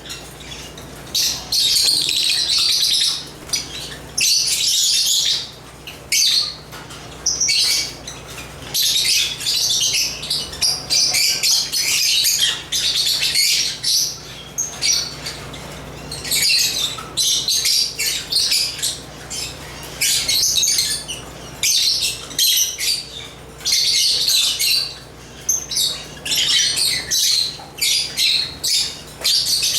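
Lovebirds chirping and chattering in rapid, high-pitched bursts that come and go every second or two throughout.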